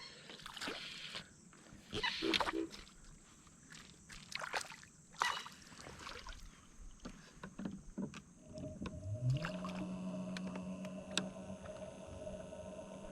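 Light knocks and water splashes around a small boat, then about eight seconds in a motor hum starts, rises briefly in pitch and holds steady.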